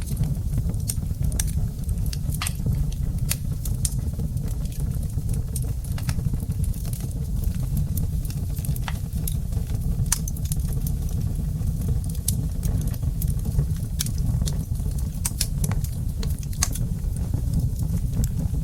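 Wood fire burning in a fireplace: a steady low rumble of flames with irregular sharp crackles and pops from the burning logs, several a second at times.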